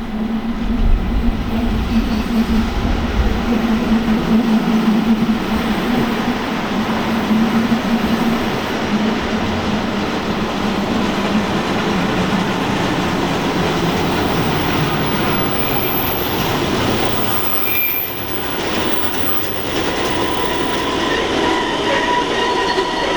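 Rhaetian Railway train running steadily, a continuous rumble of wheels on rails with a steady hum in the first half. Brief high wheel squeals come in the second half.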